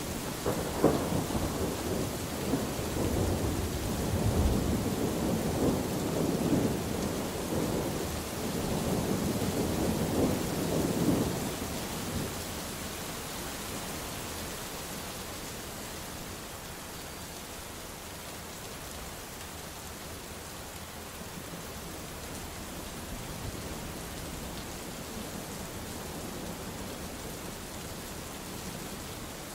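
A thunderclap with a sharp crack about a second in, rolling and rumbling for about eleven seconds over steady rain, then the rain alone falls on with an even hiss.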